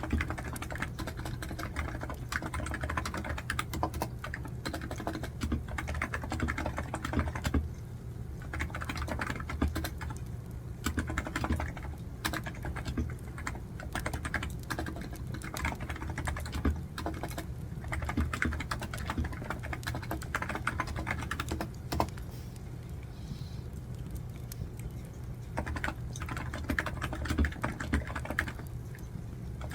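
Rapid typing on a computer keyboard, key clicks coming in quick runs with short pauses, the longest about three seconds a little past the middle, over a wood fire crackling in the background.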